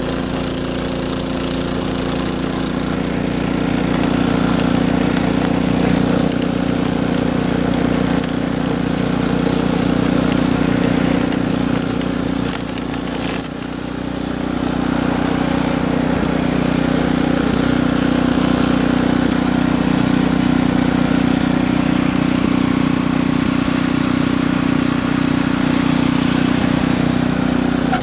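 Gas snowblower engine running steadily with a high hiss over it, dipping briefly about halfway through.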